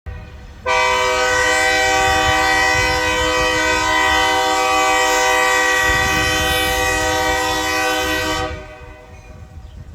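Locomotive air horn sounding one long blast, a chord of several tones that starts suddenly, is held for about eight seconds and then dies away, over a low train rumble.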